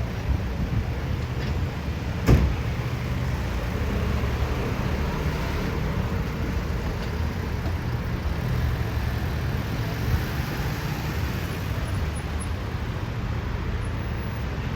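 City street traffic: cars passing with a steady low rumble of engines and tyres. A single sharp knock sounds about two seconds in.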